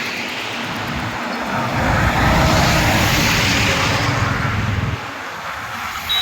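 A truck passing close by: engine and tyre noise swells about a second and a half in, is loudest around two to three seconds in, and falls away about five seconds in.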